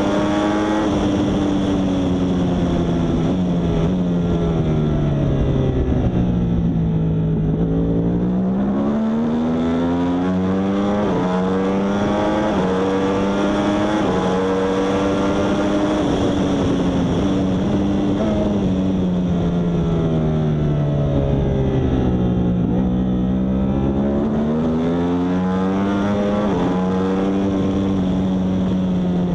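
Yamaha R1's crossplane inline-four engine at race pace, climbing in pitch in short steps through the gears. Twice the pitch sinks as it slows for a corner and then rises again as it accelerates out.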